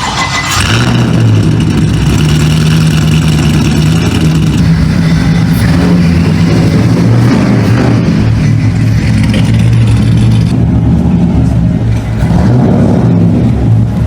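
Motor vehicle engine running under way, a loud steady low hum with road noise; the higher noise drops away about ten seconds in.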